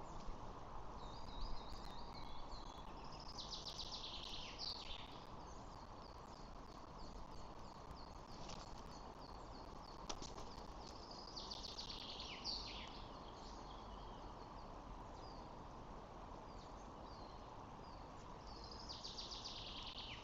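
A small songbird singing a short trilled phrase three times, about eight seconds apart, with scattered thin chirps between, over a steady outdoor hiss.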